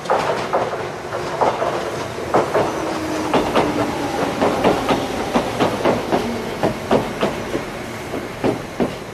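Electric commuter train rolling slowly, its wheels clacking irregularly over the track joints, about two knocks a second. Under the knocks a low hum drops in pitch around the middle.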